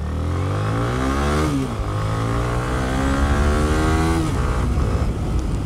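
Sport motorcycle's engine revving up under hard acceleration through the gears. The pitch climbs, drops at an upshift about a second and a half in, climbs again and drops at another shift near the end.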